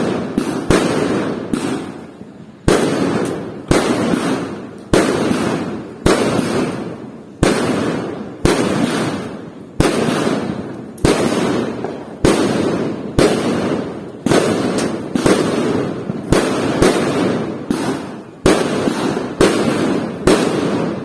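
Fireworks bursting one after another, about once a second. Each sharp bang is followed by a fading crackle and rumble.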